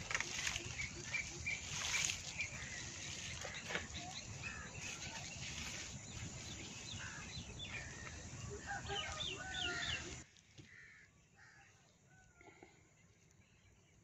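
Small birds chirping and calling over a steady rushing noise; about ten seconds in the rushing cuts off suddenly, leaving fainter birdsong.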